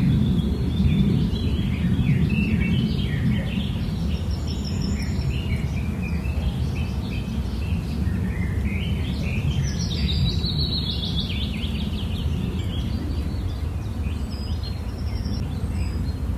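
Birds chirping and calling in bursts over a steady low rumbling noise.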